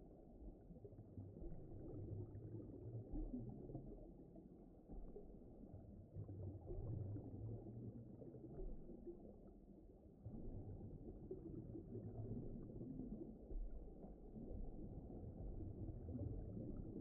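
Faint, low, muffled rumbling ambience with no high end, swelling and easing every few seconds: a deep-ocean, underwater-style background soundscape.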